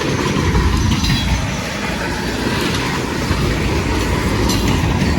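The last cars of a CSX manifest freight train rolling past at close range, with the steady, loud noise of steel wheels running on the rails.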